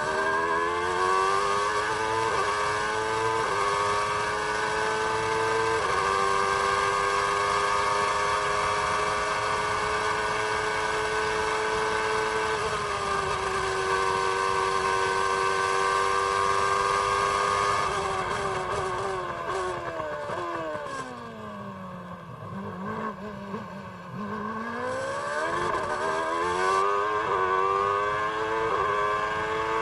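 Ford Cosworth HB 3.5-litre V8 of a 1993 McLaren MP4/8 Formula One car, heard onboard at racing speed. It accelerates with quick upshifts, each one dropping the pitch a step, and holds high revs for a long stretch. About two-thirds of the way through it brakes hard with a run of downshifts, the pitch falling to low revs through a slow corner, then climbs again through the gears near the end.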